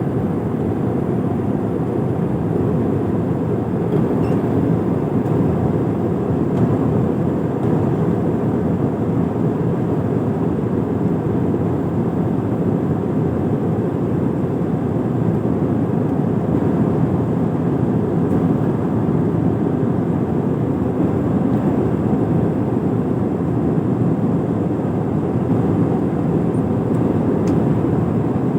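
Steady low rushing noise inside an airliner cabin in flight, from the engines and the airflow over the fuselage, even and unchanging throughout.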